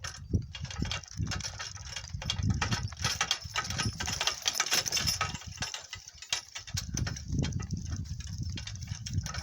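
Donkey-drawn cart rolling over rough ground, the cart and its camera post rattling and knocking irregularly over a low rumble of the wheels.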